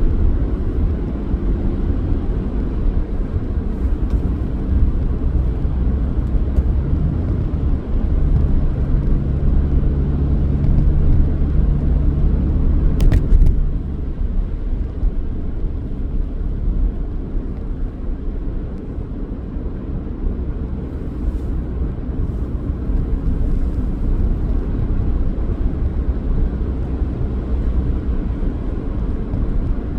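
Car driving, with a steady low rumble of road and engine noise. A low steady hum comes in about a quarter of the way in and fades after several seconds, and there is a brief click near the middle.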